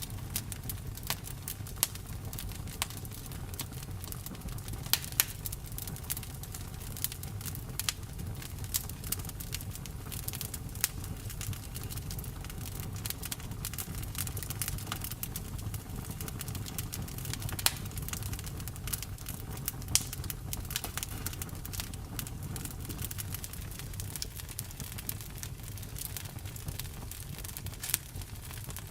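Campfire burning: frequent sharp crackles and pops, a few of them loud, over a steady low rumble of the flames.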